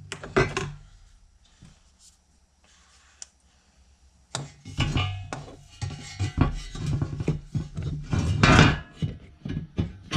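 Tools and hard fan parts being handled: a few scattered clicks at first, then busy clattering, knocking and scraping from about four seconds in.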